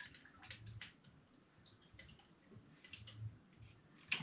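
Scattered faint clicks and light taps of copper pipe, fittings and tools being handled, about five in all.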